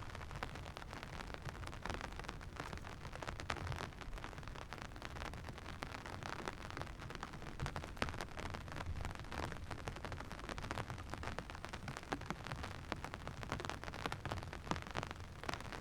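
Rain falling steadily, with a dense patter of sharp drop ticks over a steady low rumble.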